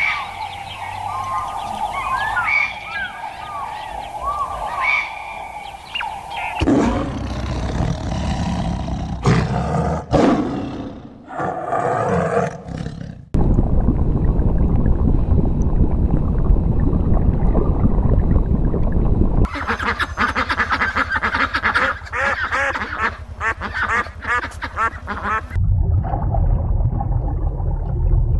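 A run of different animal calls in short clips cut one after another, the sound changing abruptly about every six seconds.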